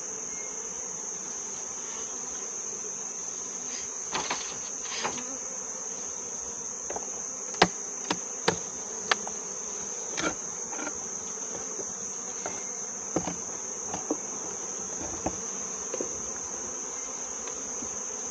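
Insects buzzing around an open beehive, with a steady high-pitched drone throughout. Over it come a dozen or so sharp knocks and clicks of hive parts being handled, loudest in a cluster about halfway through.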